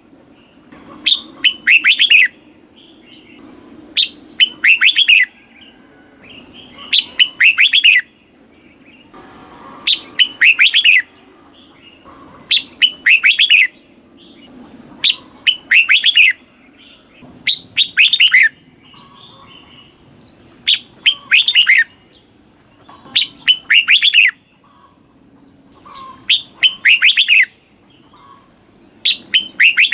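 Red-whiskered bulbul singing, repeating a short phrase of quick whistled notes about every three seconds.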